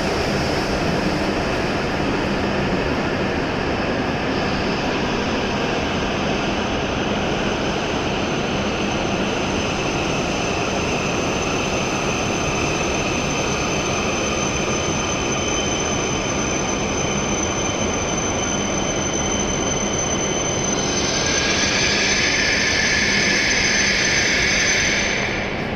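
A W7 series Shinkansen train running slowly into the platform: a steady rush of running noise with a thin, high whine. About 21 seconds in, a higher squeal of wheels and brakes joins it as the train slows to a stop.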